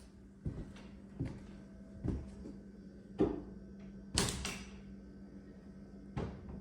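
Footsteps and knocks of someone walking through an old house, with a door clattering about four seconds in, over a steady low hum.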